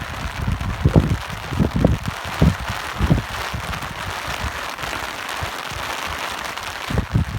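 Steady rain hiss with irregular low gusts of wind buffeting, the gusts strongest in the first few seconds and again near the end.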